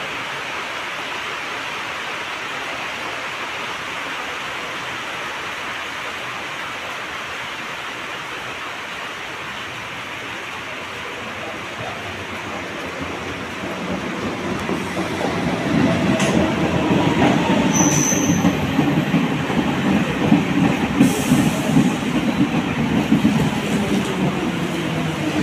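Steady rain hiss, then an electric multiple-unit local train draws into the platform. Its wheels rumble and clatter over the rails, with a motor whine falling in pitch as it slows and a brief high wheel squeal partway through.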